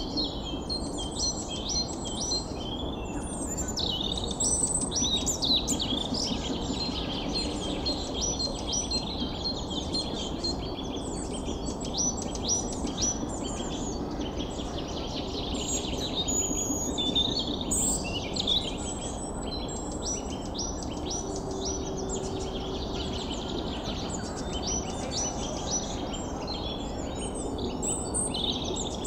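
Birds chirping and singing: many short high calls overlapping throughout, over a steady background hiss.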